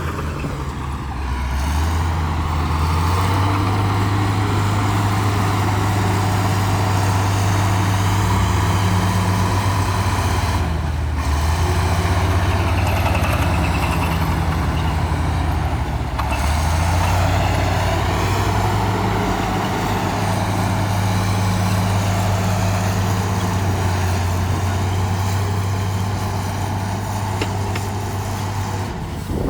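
Heavy diesel engine of earthmoving machinery running under load, its note stepping up about two seconds in, dipping briefly twice and climbing back as the throttle changes.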